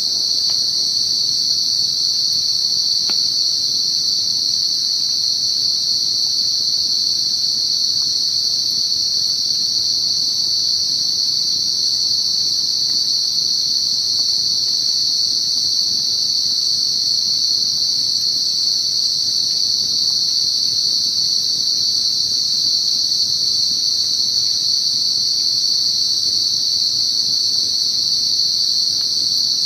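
Dense chorus of night insects: one steady, high-pitched drone that never breaks or changes.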